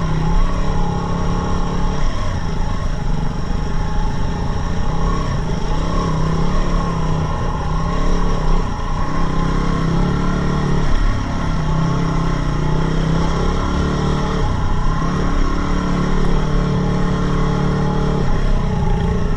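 Yamaha WR250R dual-sport motorcycle's single-cylinder engine running under way at a fairly steady pitch, with brief drops in revs a few times as the throttle is eased and reopened.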